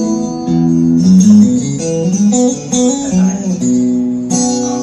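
Ibanez RGA42EX electric guitar played through a Zoom G5n multi-effects unit: a ringing chord, then a short melodic phrase with bent, gliding notes, then another held chord.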